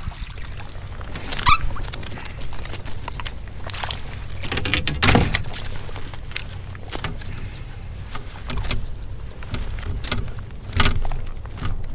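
Irregular knocks, clicks and rattles of fishing tackle and kayak handling, with the loudest knocks about a second and a half in, around five seconds in and near the end, while a hooked pike is being played in.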